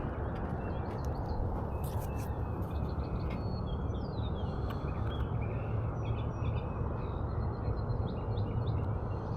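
Outdoor ambience: a steady low rumble, with a few faint, high, falling bird chirps on top.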